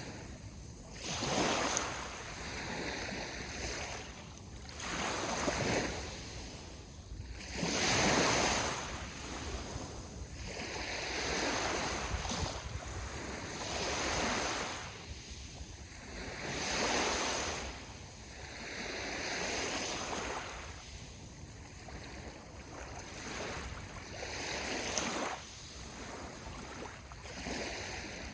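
Sea waves breaking and washing up on the shore, one surge after another every few seconds.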